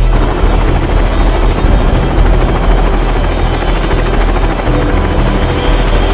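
Helicopter running: a loud, steady rush of rotor and engine noise that cuts in suddenly and cuts off just as suddenly about six seconds later.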